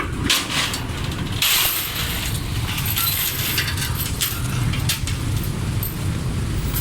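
Steady low rumble of engines aboard a busy river car ferry, with scattered clinks and clatter; a longer burst of hiss and clatter comes about a second and a half in.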